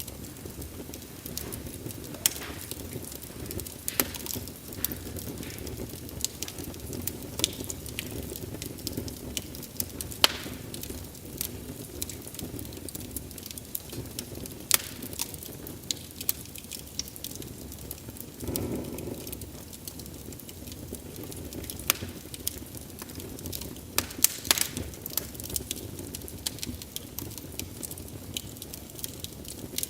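Wood fire crackling: irregular sharp pops and snaps over a steady low rush of the flames, with a brief louder swell of flame noise about two-thirds of the way through.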